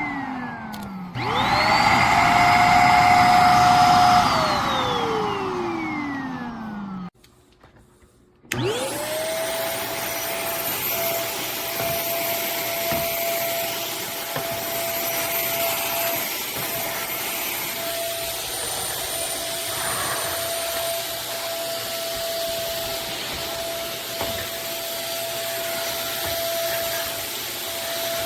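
iwoly V600 corded stick vacuum's motor winding down, then switched on again about a second in with a rising whine. It runs for about three seconds and winds down to a stop. After a second and a half of quiet it spins up once more and runs steadily with a high whine.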